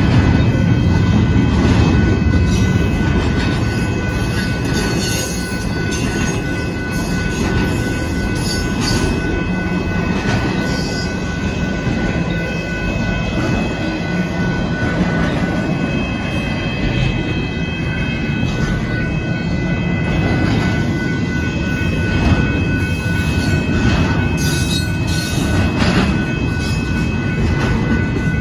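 Union Pacific double-stack intermodal freight cars rolling steadily past, a heavy rumble of steel wheels on rail, with several steady high-pitched tones running over it.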